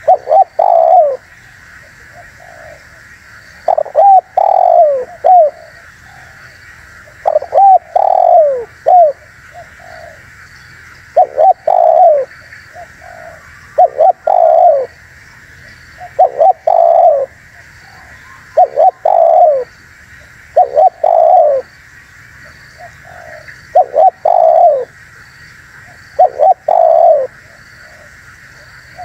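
Spotted dove (tekukur) cooing: a short phrase of several falling coo notes, repeated about every two seconds, over a steady background hiss.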